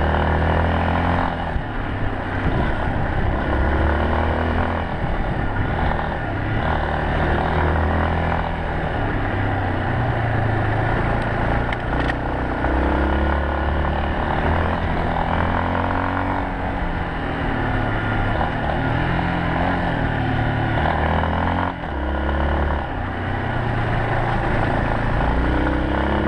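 Yamaha Serow 250's air-cooled single-cylinder four-stroke engine under way, its revs rising and falling again and again as the rider works the throttle and gears, over steady riding noise.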